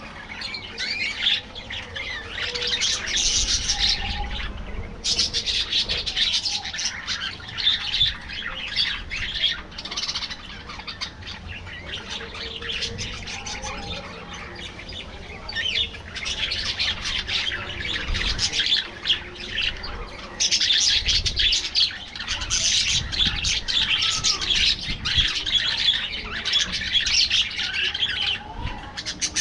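A colony of budgerigars chattering, with many birds warbling and chirping at once. It dips quieter for a few seconds in the middle, then picks up again.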